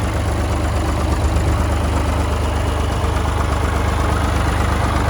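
Massey Ferguson 203's three-cylinder Perkins diesel engine running steadily at an even speed, its firing pulsing evenly.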